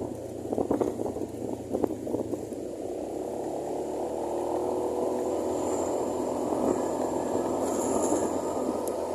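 Honda Genio scooter's small single-cylinder engine running steadily while riding, with wind gusting on the microphone; the wind dominates the first few seconds before the engine's even hum settles in.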